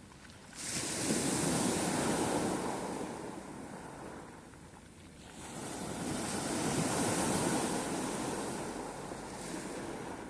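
Sea waves breaking and washing onto the shore, two swells about five seconds apart, each rising quickly and then draining away.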